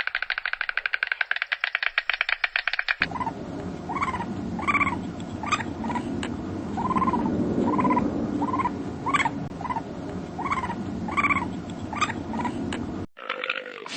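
A fast pulsing rattle-like sound for about three seconds, then a flock of poultry calling, many short repeated calls over a noisy background. It cuts off about a second before the end, where a brief different sound follows.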